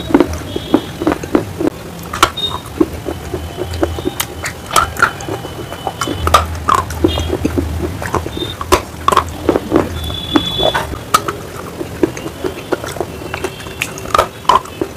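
Close-miked chewing and biting of brittle, slate-like stone: a continuous run of sharp, irregular crunches and crackles, several a second.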